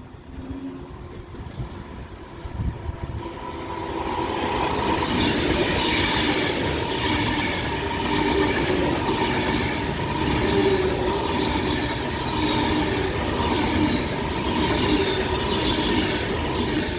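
Class 390 Pendolino electric train passing through the station. The sound builds over the first few seconds into a loud steady rush of wheels on rail, with a faint steady tone and a clatter that recurs about once a second.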